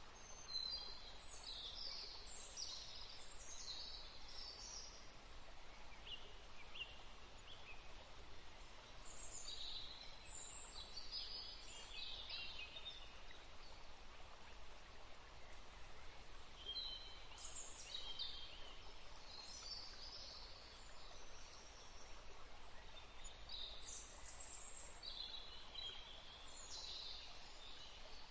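Small birds singing: bouts of high, quick chirps and short phrases with brief pauses between them, over a faint steady hiss of outdoor ambience.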